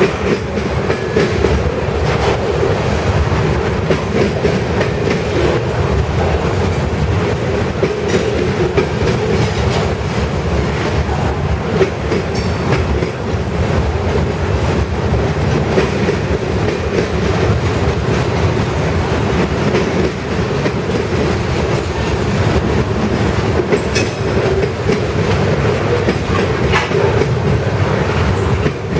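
Freight train cars rolling past steadily, their steel wheels clattering rhythmically over the rail joints.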